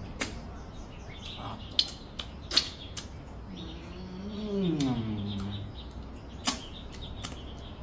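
Eating at the table: a handful of sharp clicks of tableware, with a low hum rising and falling for about a second, about four seconds in.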